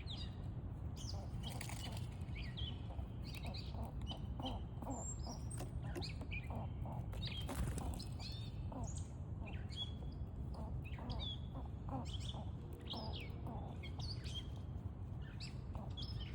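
Small songbirds chirping, many short calls overlapping, over a steady low background rumble.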